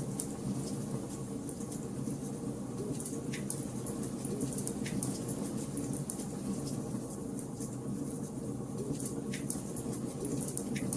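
Wood fire crackling in a fireplace: a steady low hiss of burning logs with frequent sharp pops and snaps scattered through it.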